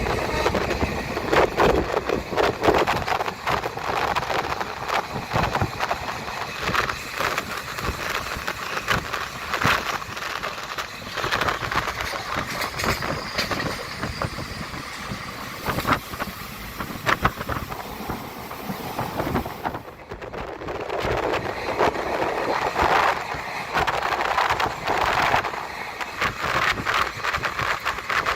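Train running along the track: a steady rumble and rush with many irregular clacks and knocks of the wheels on the rails.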